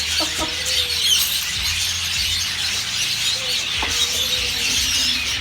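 Many budgerigars chattering together, a dense, continuous stream of short high chirps and warbles.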